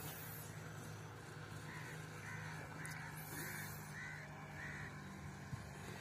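A bird calling six times in a row, about two calls a second, starting about two seconds in, over a faint steady low hum.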